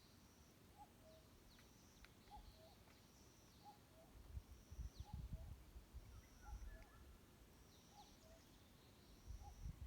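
Forest birdsong: one bird repeats a low two-note call, the higher note then the lower, about once a second, while other small birds give thin high calls and quick downward whistles. Bursts of low rumble come around the middle and again near the end.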